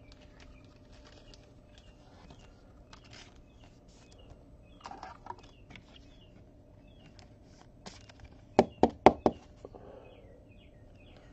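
Quiet handling of a trading card and its plastic holders: light rustling and soft clicks, with a quick run of four or five sharp taps a little past eight seconds in.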